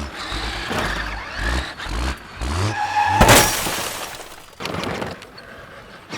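A car engine revving in short rising bursts, then a loud sudden crash-like hit about three seconds in.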